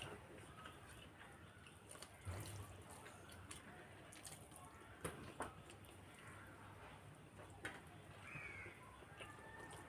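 Quiet eating by hand: a few faint clicks and smacks from mouths and plates, with long near-silent gaps between them.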